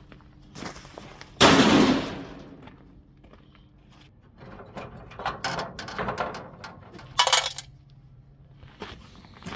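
Metal parts of an air-conditioning unit being knocked and handled during dismantling: scattered clanks and knocks, with a sudden loud burst of noise about a second and a half in that fades within a second, and a loud ringing clank near the end.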